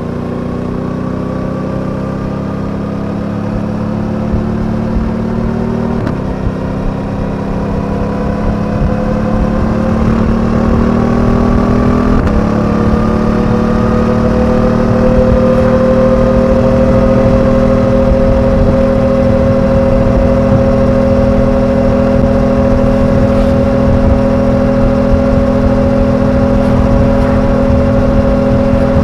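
Suzuki V-Strom 800DE parallel-twin engine pulling under acceleration, its pitch climbing and dropping at two upshifts, about six and twelve seconds in. It then settles into a steady cruise, with road and wind rumble underneath.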